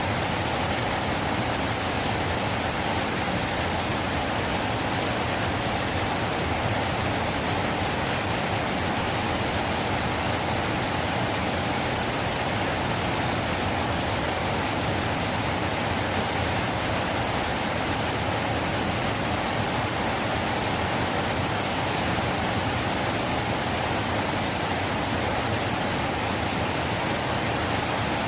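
River water rushing with a steady, unbroken noise.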